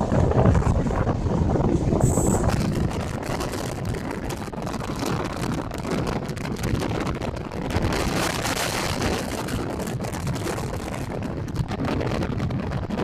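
Passenger train running along the track, heard from on board, with a steady rumble of wheels on rail and wind buffeting the microphone. A brief high tone sounds about two seconds in.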